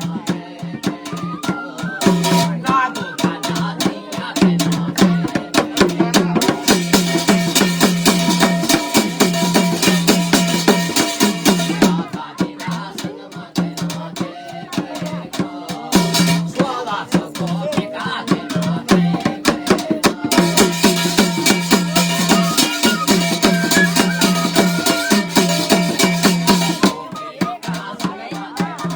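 Garhwali jagar folk music: fast, dense drum strokes over a steady held drone, swelling twice into louder, brighter passages.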